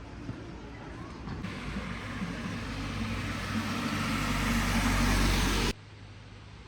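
A road vehicle approaching on a wet road, its tyre hiss and engine rumble growing steadily louder, then cut off abruptly near the end.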